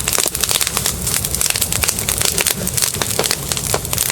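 A fire crackling and popping: a dense, steady run of sharp irregular cracks.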